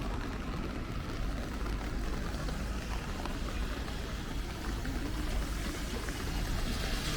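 Rainy city street ambience: a steady low rumble of traffic under an even hiss of rain.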